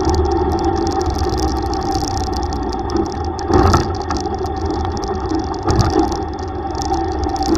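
Single-cylinder engine of a Yamaha YTX125 motorcycle running at a steady pace while riding, over road and wind noise. Two brief louder knocks come about three and a half and six seconds in.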